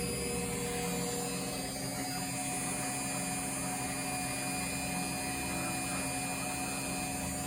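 Indesit washing machine humming steadily while its drum stands still, an even drone with a few fixed tones and no knocks.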